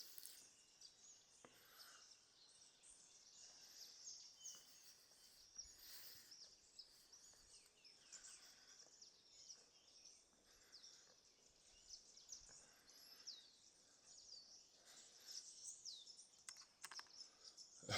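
Faint birdsong: many short, high chirps and whistles from small birds, with a few soft clicks near the end.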